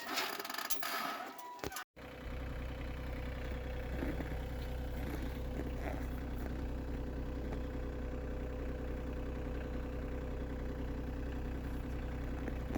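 Engine idling steadily, starting abruptly after a cut about two seconds in; before it come light scattered clicks and patter.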